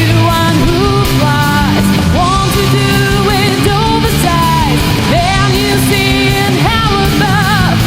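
Alternative rock band playing: a full, loud band sound with a lead melody that bends and wavers in pitch over the bass and drums.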